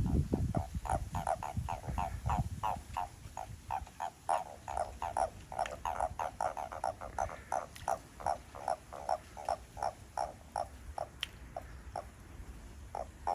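A chorus of frogs croaking, short repeated calls at about four a second, overlapping. A low rumble sounds under them for the first couple of seconds.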